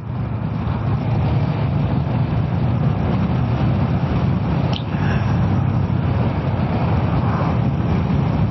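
Kawasaki ER-6f's parallel-twin engine running steadily while riding, mixed with road and wind noise. A brief click comes about five seconds in.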